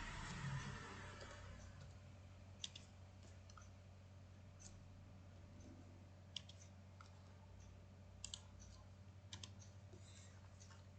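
Scattered computer mouse clicks and keyboard keystrokes, single or in quick pairs, over a faint steady electrical hum.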